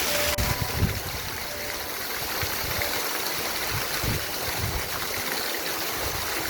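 Stream water rushing steadily, with uneven low rumbles on the microphone underneath.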